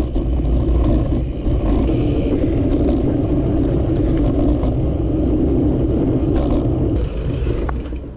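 Steady rumble of wind and road noise while riding a bicycle, easing off about seven seconds in.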